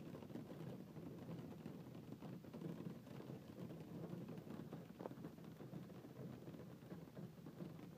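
Faint, steady patter of falling precipitation during a hailstorm.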